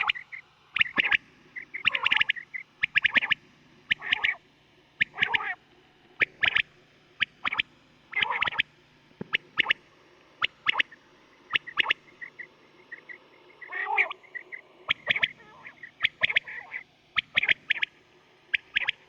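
Quail calling: short, sharp notes repeated every half second to a second, often in small clusters, some with a deeper lower part. A recorded call used to lure quail for hunting.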